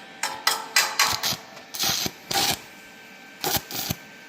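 Stick-welding arc from an ESAB 180i Pro inverter welder, a 2.5 mm basic electrode on 2 mm box section at about 67 amps, crackling in five or six short bursts with gaps between them as the arc is struck and broken. At this current it is still melting through the thin steel.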